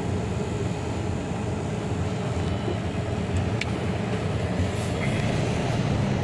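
MAN TGA truck on the move: steady diesel engine and road noise, with one small click a little past halfway.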